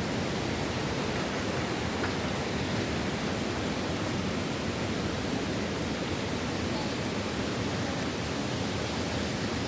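Steady rushing noise of strong storm wind ahead of a hurricane.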